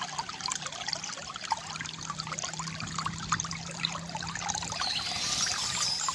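Water trickling and pouring from a bamboo fountain spout into a basin: a dense patter of small splashes over a faint low steady hum, with a brighter hiss joining near the end.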